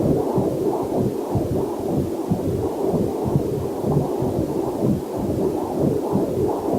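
Heartbeat picked up by a fetal Doppler monitor: a rhythmic whooshing pulse, a little over two beats a second, steady throughout.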